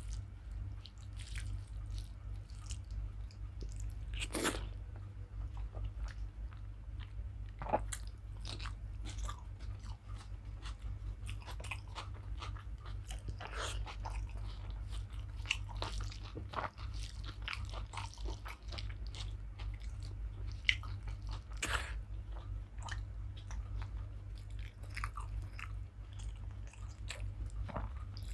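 Close-up chewing and biting while eating rice with dal and fried potato and okra, with wet mouth clicks and crunches scattered irregularly throughout. A steady low hum runs underneath.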